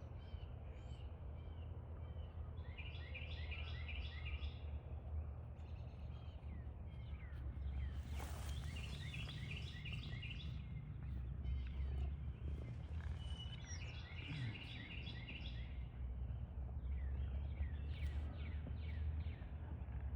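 Birds chirping in quick repeated series, several bouts of chirps coming and going, over a steady low background rumble.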